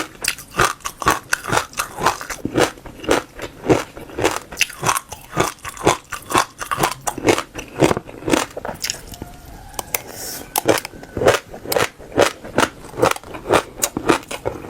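Crunchy seeds being bitten and chewed close to the microphone, a quick run of sharp crisp crunches, roughly two to three a second, with a brief lull about two-thirds of the way through.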